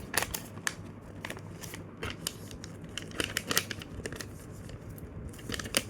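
A sheet of paper being handled and folded by hand, most likely a squash fold: irregular crisp crinkles, rustles and creasing clicks.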